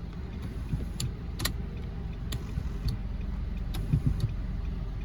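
Nissan Rogue's 2.5 L four-cylinder engine idling with a steady low hum, with a few scattered light clicks.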